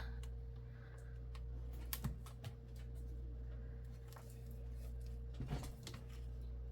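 Light clicks and crinkles of plastic food packets being handled, a few scattered taps over a steady low hum.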